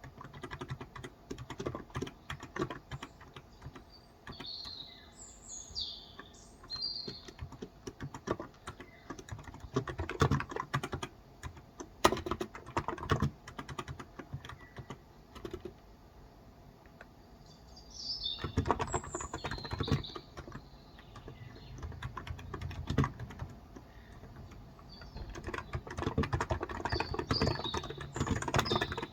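Typing on a Cox Endeavor capacitive tenkeyless keyboard with light 35 g switches: keys clicking in uneven bursts with short pauses. Birds chirp in the background three times: a third of the way in, a little past halfway, and near the end.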